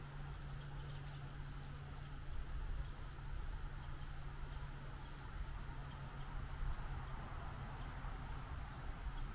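Short, high chirps repeat irregularly, about one or two a second, like a small bird's chip notes. Under them run a low rumble of wind on the microphone and a steady low hum.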